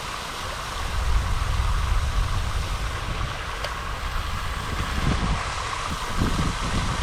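Wind buffeting the microphone outdoors: a steady low rumble that strengthens about a second in, over an even background hiss.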